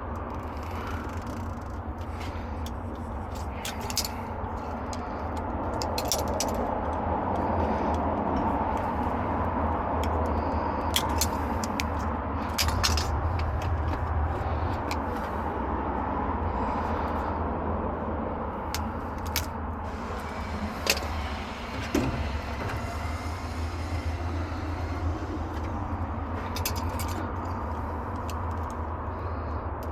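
Steady low rumble of road traffic, swelling and fading slowly, with scattered sharp metallic clicks and clinks of hand tools and hardware as ground conductors are fitted to lugs.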